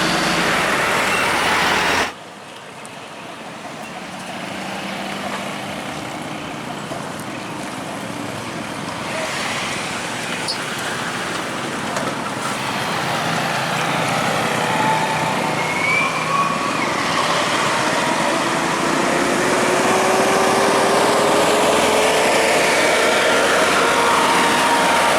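Heavy truck engine, growing steadily louder as the truck draws near, its pitch rising as it pulls away under power. It follows an abrupt cut, about two seconds in, from louder traffic noise.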